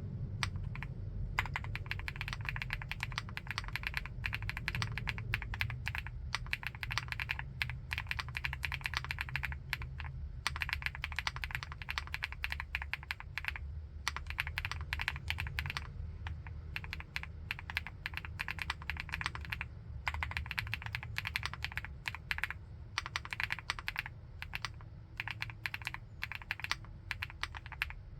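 Typing on a 75%-layout full-aluminium keyboard: dense, continuous runs of keystrokes broken by a few short pauses.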